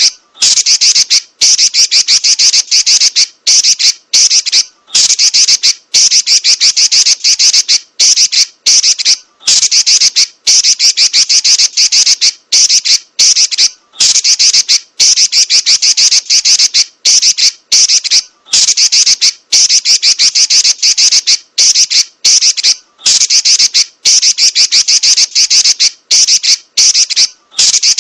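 A female red-billed leiothrix (Pekin robin) gives fast, scratchy, rolling chatter trills. They come in bursts of one to two seconds with short breaks between.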